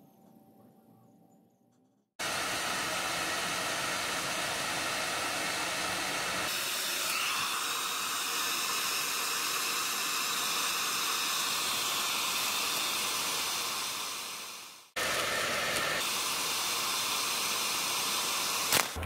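Hair dryer blowing, switching on abruptly about two seconds in and running steadily; its sound shifts higher a few seconds later, winds down and dies out, then starts again abruptly.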